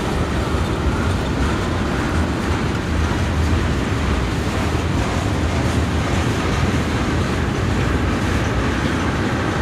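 Freight train cars, covered hoppers and tank cars, rolling past on the rails with a steady, unbroken rumble of wheels.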